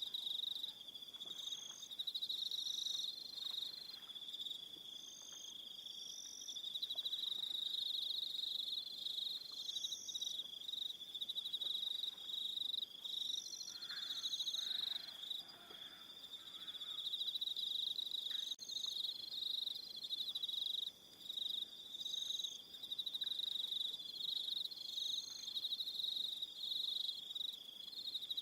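An evening chorus of crickets: a dense, continuous high-pitched trill, with shorter, higher chirps coming in every second or two.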